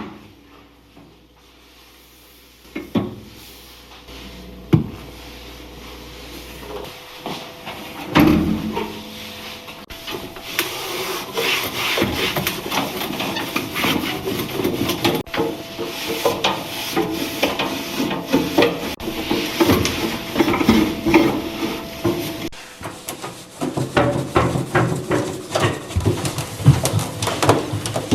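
Hand scrubbing or wiping of a hard surface. A few separate knocks come first, then from about ten seconds in a continuous scratchy rubbing full of small clicks.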